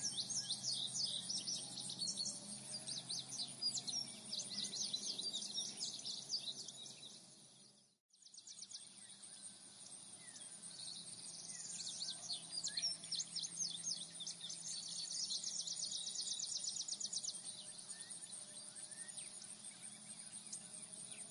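Songbirds singing in quick, repeated chirps over a steady high insect trill. The sound fades out completely about a third of the way in, then fades back in.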